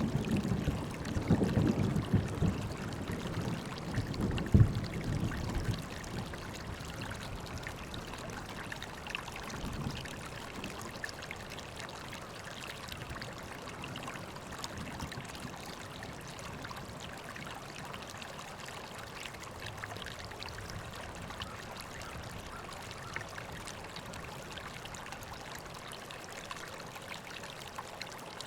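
River water flowing steadily. A low rumble under it fades away over the first several seconds.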